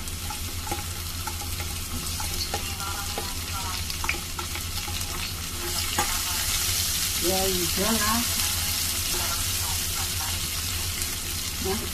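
Chopped garlic, shallots and dried shrimp sizzling in hot oil in a nonstick wok, stirred with a silicone spatula that taps and scrapes against the pan. The sizzle grows louder about halfway through.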